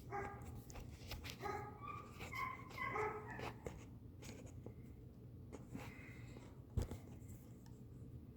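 Several short, high, whining calls from an animal in the first few seconds, shifting in pitch, mixed with light clicks and a single knock near the end.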